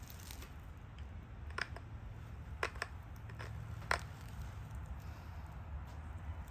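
Pressure flaking a stone Dalton point: a handful of sharp clicks as small flakes snap off the edge, the loudest a little under four seconds in.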